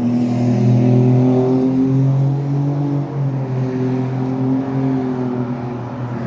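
A motor vehicle's engine running steadily, a low even hum with small wavers in pitch.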